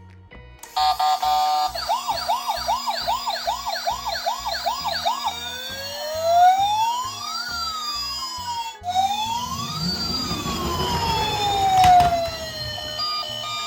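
Electronic emergency-vehicle sirens from toy ambulances and rescue cars. First a fast yelp repeats about twice a second for several seconds; then several slow wails rise and fall, overlapping and crossing each other. A low rumble swells and fades about ten seconds in.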